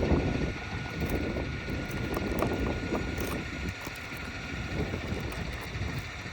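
Wind rumbling on the microphone, with a few faint clicks and scrapes from a pry tool working a roofing nail loose under a shingle.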